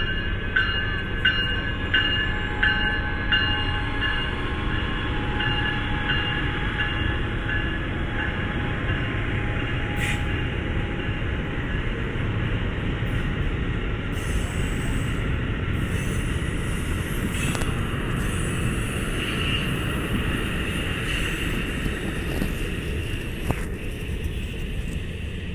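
A train rolling past, with a steady rumble and evenly spaced clicks over the first few seconds, about one every 0.7 s.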